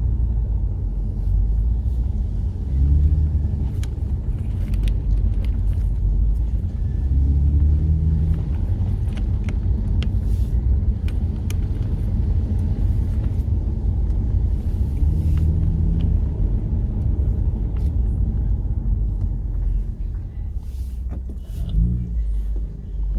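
Car being driven: a steady low engine and road rumble, with the engine note rising briefly a few times.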